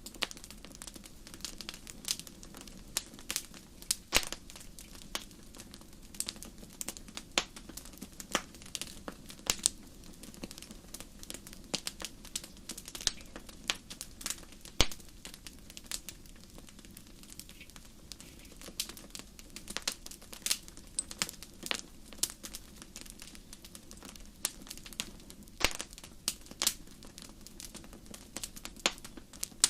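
Wood fire crackling, with irregular sharp pops and snaps over a faint low rumble of the flames.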